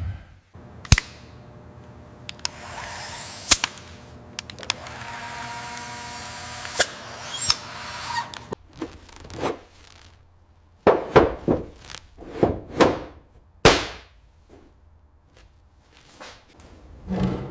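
Hand and power-tool work: a run of sharp knocks and clicks, with a stretch of steady whirring in between.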